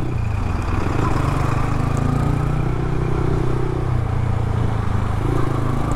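Yamaha R15 V3's single-cylinder engine running at steady low revs through an aftermarket exhaust with its dB killer fitted, heard from the rider's position while cruising slowly.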